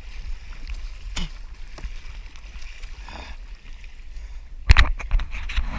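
Water sloshing against a kayak hull with wind rumbling on the action-camera microphone, broken by a few small knocks; about four and a half seconds in, a burst of sharp loud knocks and splashes starts.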